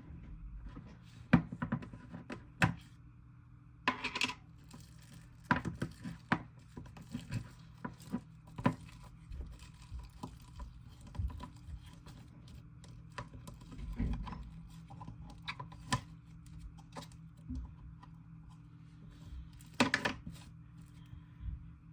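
Irregular clicks, taps and knocks from handling plastic slime containers and lids and working the slime and clay by hand, over a faint steady low hum.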